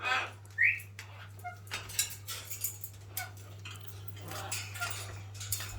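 Small pet parrots chirping briefly, with one short rising chirp under a second in, among many light clicks and scratches. A steady low hum runs underneath.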